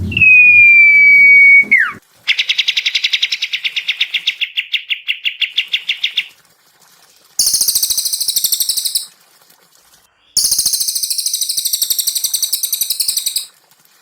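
Songbird song in separate phrases. First a loud, long steady whistle that slides down at its end. Then a fast trill of about ten notes a second, lasting about four seconds. Then two high, harsh buzzing rattles, the second longer.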